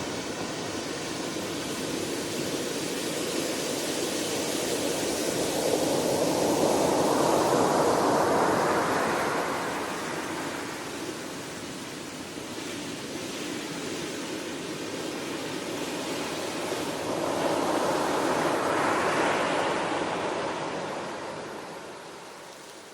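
Ocean waves breaking and washing on a shore, two slow swells that build and then fade, over a steady rush of surf.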